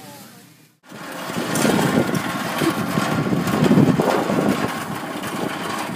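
Small hand-pulled cart loaded with boxes rolling over asphalt, its hard wheels making a loud, rough rattling rumble that starts about a second in.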